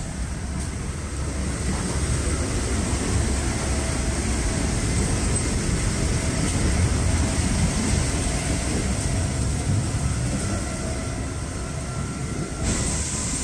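Steady rumble of a moving passenger train heard from inside, in the gangway between carriages and the sleeper car. The noise changes in character near the end.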